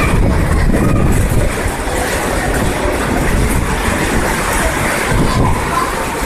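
Heavy rain pouring down onto the roof overhead: a loud, steady rushing noise.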